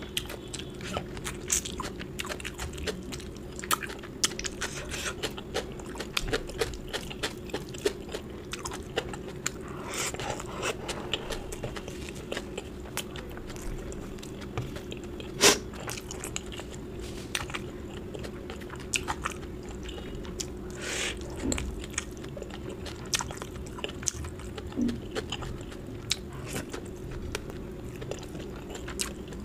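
Close-miked eating: chewing and biting with many small mouth clicks, and one sharper click about halfway through.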